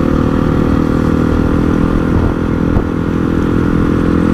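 Honda CRF450 supermoto's single-cylinder 450 engine running under way at steady revs, its exhaust note holding one pitch.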